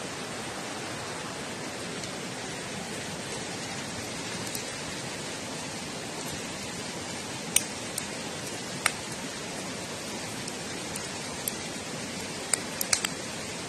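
Wood campfire crackling: a steady hiss with a few sharp pops, several of them close together near the end.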